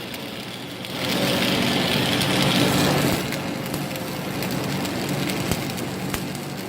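Stick-welding arc crackling steadily as an AC225 arc welder, set at 135 amps, runs a bead with a 7014 rod; it grows louder about a second in. A steady low hum sits underneath.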